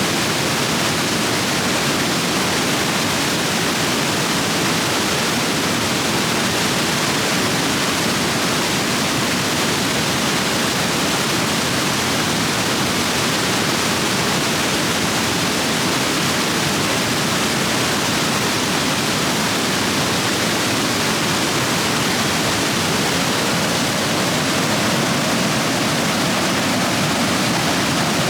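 Rapids on a stream swollen by heavy rain, the water rushing over rocks in a steady, unbroken roar.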